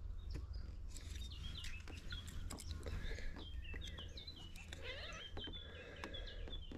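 Small birds chirping over and over in short, quick, pitch-bending notes, with scattered sharp clicks and a steady low rumble underneath.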